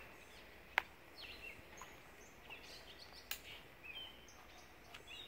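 Scattered short, high bird chirps and whistles. A single sharp click a little under a second in, and a fainter one just past three seconds.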